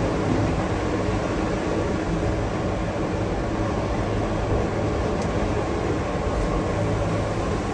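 Gornergrat Railway electric cog train climbing a steep grade, heard from inside the carriage: a steady running noise with a low hum.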